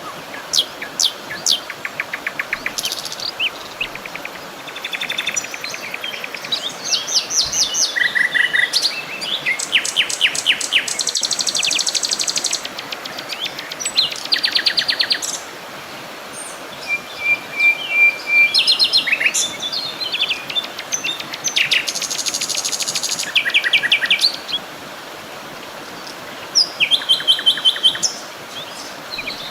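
Several songbirds singing and calling together, with rapid trills and repeated chirps overlapping and coming in waves, over a steady background hiss.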